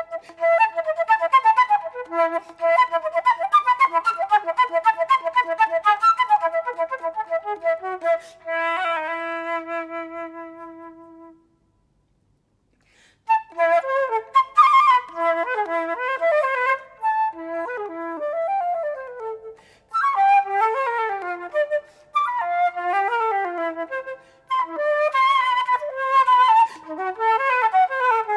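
Flute playing fast runs of notes, then a long low note that fades away. After a pause of about two seconds it starts again with quick rising and falling runs.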